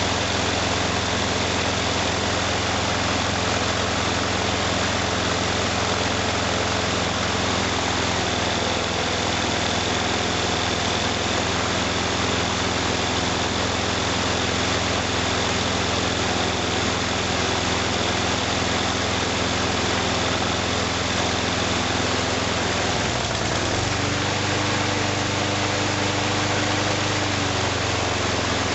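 Several small Briggs & Stratton lawn mower engines running together at idle. About 23 seconds in, one engine's pitch rises, and it changes again a few seconds later.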